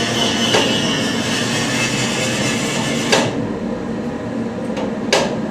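Hammer strikes on metal during a turbocharger teardown: three sharp blows, one about half a second in, one a little past three seconds and one near the end. Over the first three seconds a steady, dense mechanical noise runs, then cuts off.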